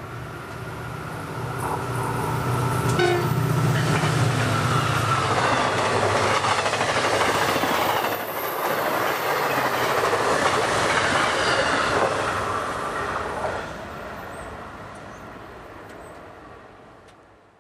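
MARC MP36PH-3C diesel locomotive, a 16-cylinder EMD prime mover, running through the station without stopping. Its engine hum builds over the first few seconds, then the bilevel coaches roll past with steady wheel and rail noise. The sound fades as the train moves away and cuts off just before the end.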